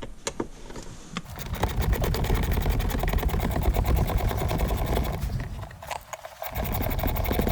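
Cordless power tool spinning out a 10 mm bolt, in two runs: a fast, even mechanical whir from about a second in, a short pause near six seconds, then a second run.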